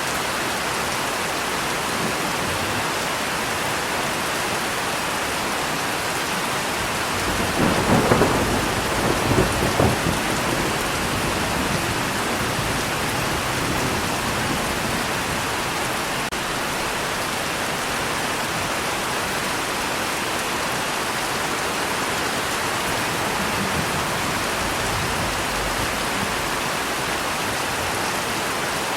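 Steady rain falling, with a roll of thunder about a quarter of the way in that swells twice and then fades back into the rain.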